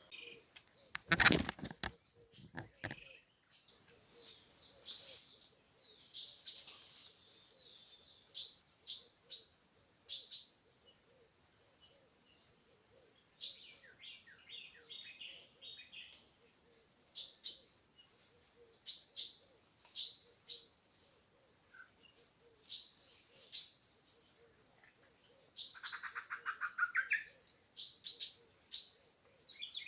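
Steady high-pitched chirping of crickets or similar insects, pulsing at a regular beat, with scattered short bird chirps and two longer trilling bird calls midway and near the end. A sharp knock about a second in.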